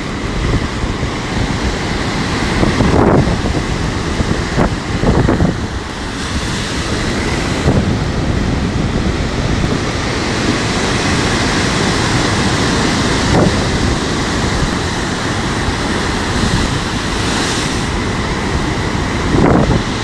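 Strong gusty wind buffeting the phone's microphone over the steady noise of storm surf breaking on the shore.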